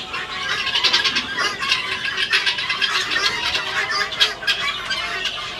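A flock of helmeted guinea fowl calling together: many harsh, rapid, overlapping chattering calls.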